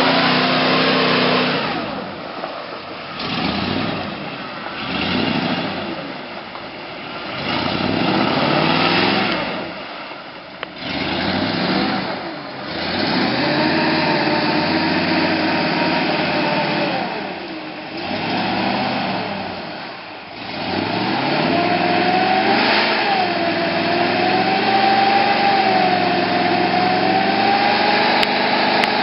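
1988 Ford F-150's 302 (5.0 L) V8 revving up and dropping back again and again, then held at high revs for the last several seconds.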